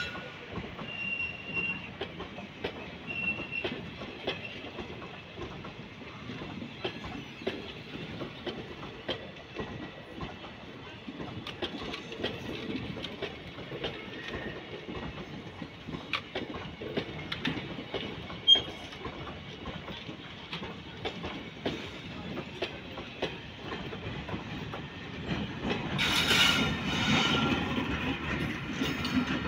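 Passenger coaches of an Indian Railways train rolling past close by: a steady rumble with the clicking and clatter of wheels over rail joints. Near the end the sound grows louder.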